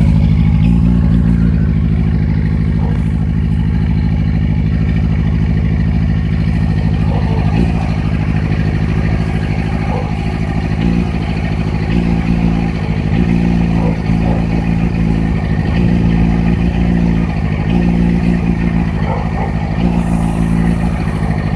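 2008 Yamaha FZ6's 600 cc inline-four engine idling roughly. Its note is uneven, with stumbles and wavers at irregular intervals, the rough idle the owner is showing.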